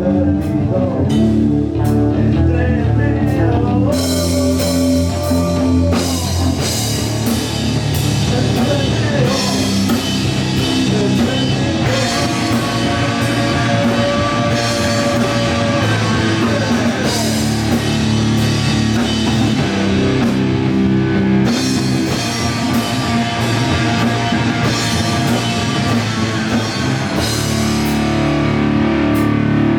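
Heavy metal band playing live: distorted electric guitars, bass and a drum kit in an instrumental passage, with cymbals crashing in about four seconds in.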